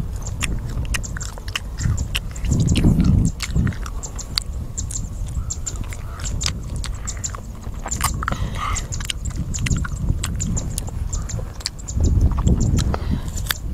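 Crunchy open-mouth chewing of raw green mango slices: a dense run of crisp, wet clicks. Low rumbles of wind on the microphone swell up about three seconds in and again near the end, louder than the chewing.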